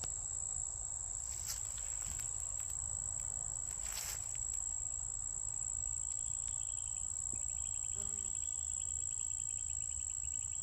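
Meadow insects singing: a steady, high-pitched buzz throughout, joined from about six seconds in by a second insect's fast, evenly pulsed chirping a little lower in pitch. A low rumble of wind or handling runs underneath.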